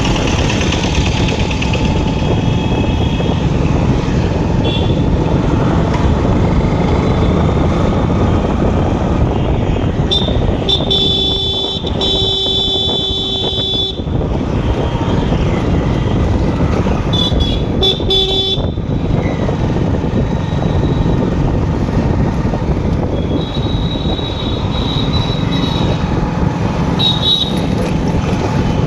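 Steady road and engine noise from riding a motorcycle in traffic, with vehicle horns honking several times: a long blast about 11 to 14 seconds in, shorter toots around 18 seconds, and more near the end.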